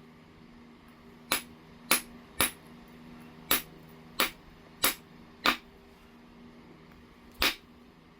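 Flintknapping on heat-treated Oregon jasper: eight sharp clicks of the knapping tool striking the stone's edge, at an uneven pace of roughly one every half second to second, with a longer gap before the last.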